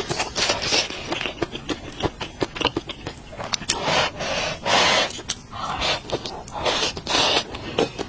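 Close-miked eating of stir-fried rice noodles: dense wet chewing and mouth clicks, broken by several short noisy slurps.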